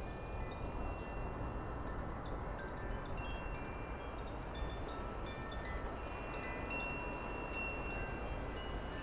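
Wind chimes tinkling, with scattered high, clear notes, some ringing on for a second or two, over a steady background rush.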